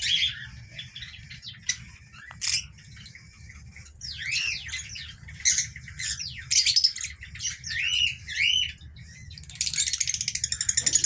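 Lovebirds calling: a string of short, sharp chirps and squawks, then about nine seconds in a fast, dense chattering that keeps going.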